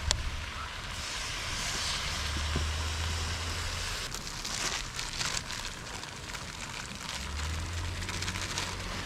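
Wood campfire crackling and hissing, with a cluster of sharp pops about halfway through. A low rumble comes and goes twice.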